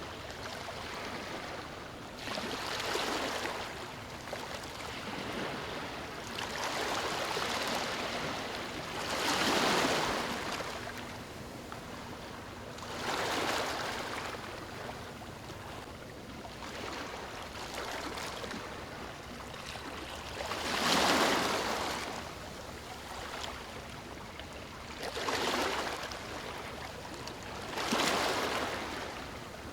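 Ocean waves breaking and washing up a beach: a steady hiss of surf with a swelling rush every few seconds, about seven in all, the loudest a little past the middle.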